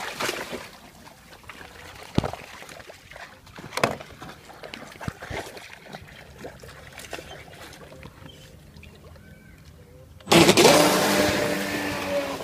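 Small splashes and knocks of water, then about ten seconds in a radio-controlled boat's motor starts suddenly and loudly with a rush of spray, its whine slowly fading as it runs.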